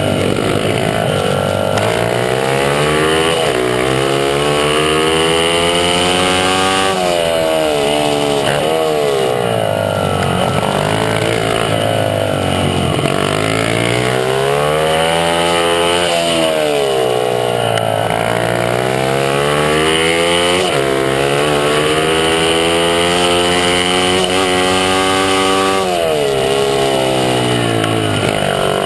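Honda CRF50 pit bike's small single-cylinder four-stroke engine at racing speed, its pitch climbing under throttle and falling back again and again as the rider accelerates and slows.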